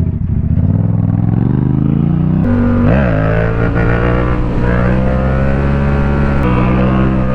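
Motorcycle engine accelerating: the revs climb, drop sharply at an upshift about two and a half seconds in, then hold fairly steady, with another shift near the end.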